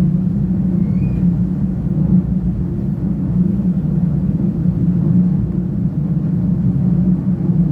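CP UDD 0467 diesel multiple unit running along the line: a steady, even drone of engine and running noise with a low hum that holds level throughout.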